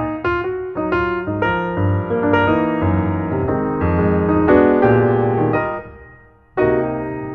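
Background piano music: a melody over chords, fading briefly about six seconds in before new notes start.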